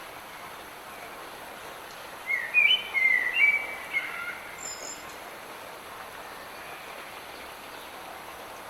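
Steady hiss of light rain, with a songbird singing one short phrase of quick chirping notes about two seconds in, lasting about two seconds.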